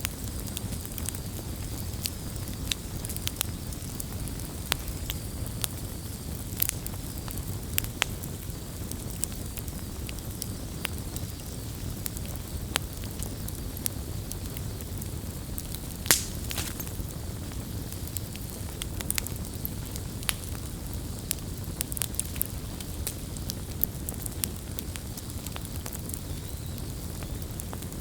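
Campfire burning with a steady low rumble and irregular sharp crackles and pops from the burning wood, one louder pop about halfway through.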